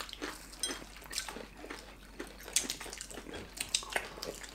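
Chewing and crunching of crispy Korean fried chicken: an irregular scatter of soft crunches and mouth clicks.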